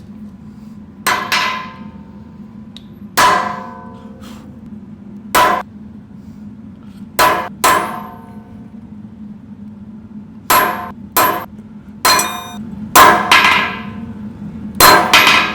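Blacksmith's hammer striking steel on an anvil: about a dozen irregular blows, some in quick pairs, each leaving a metallic ring. A steady low hum runs underneath.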